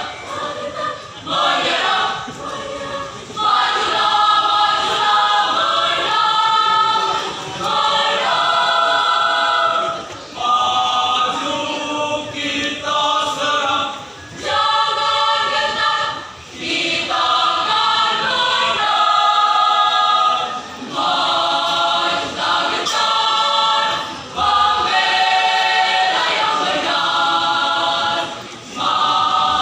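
A mixed school choir singing unaccompanied, in sustained phrases with short breaths between them.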